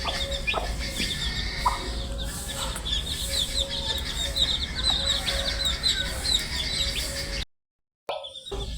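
A brood of baby chicks peeping continuously, many quick high chirps overlapping. The sound drops out to silence for about half a second near the end, then the peeping resumes.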